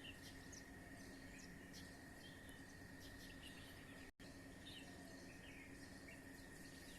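Faint dawn chorus of many small birds chirping in a tree: short high chirps scattered all through, over a steady high tone. The sound cuts out for an instant about four seconds in.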